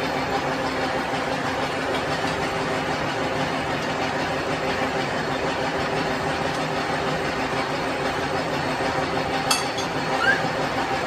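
Steady hum and rumble of running factory machinery, with a single sharp click near the end.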